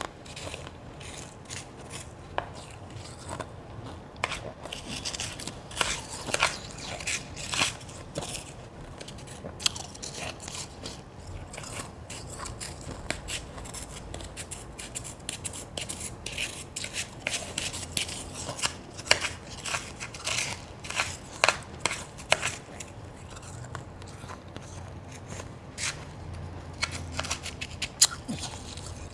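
A person chewing and crunching mouthfuls of ice made from ice cubes, some of it blended and some shaved, in a rapid, irregular string of crisp crunches. A few sharper, louder crunches come late on.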